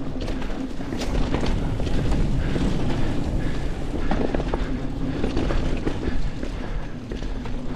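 Mountain bike being ridden along a dirt trail: a continuous rumble of tyres and wind on the microphone, with the bike rattling and clicking over bumps.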